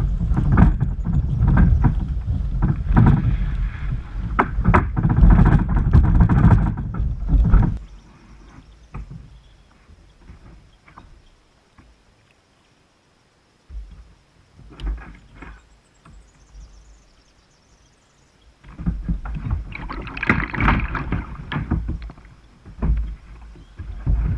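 Kayak on the water: knocking, splashing and rumbling of the hull and paddle. It is loud for the first several seconds, goes quiet with a few short bumps through the middle, and turns loud again near the end.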